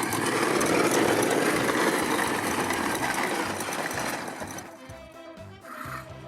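Motorized ride-on toy horse running, a loud rattling mechanical buzz from its motor and wheels that fades away about four and a half seconds in.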